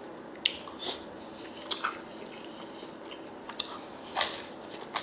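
Close-miked eating sounds: chewing a mouthful of beef stew and bread, with short wet mouth clicks and smacks coming irregularly, six or seven in all.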